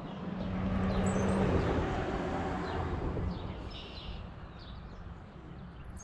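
Small birds chirping, short high calls repeated now and then, over a broad rushing noise that swells about a second in and eases off after about three seconds.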